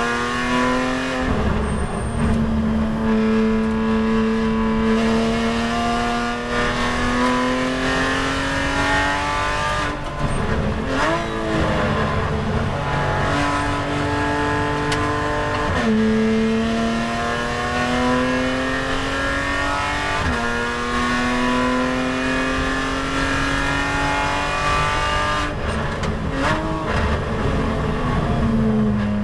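Porsche 911 race car's flat-six engine heard from inside the cabin, pulling hard through the gears on track. Its pitch climbs steadily and drops sharply at each upshift, every five seconds or so. There are quick throttle blips on downshifts about ten seconds in and again near the end.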